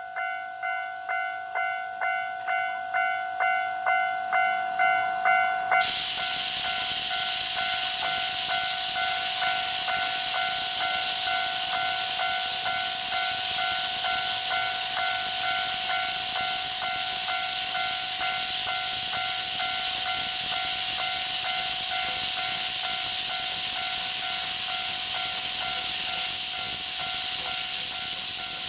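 Steam locomotive C12 66 venting steam: a loud, steady hiss that starts suddenly about six seconds in. Before it comes a rhythmic pulsing, about two a second, growing louder.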